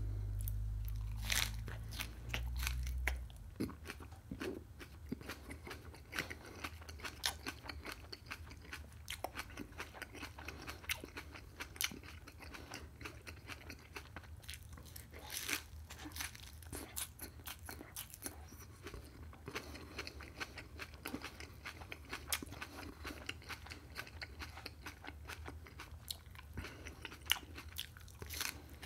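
Close-up chewing and biting of a flour tortilla wrap with crisp vegetables: irregular wet crunches, mouth clicks and smacks. A low rumble sits under the first three seconds.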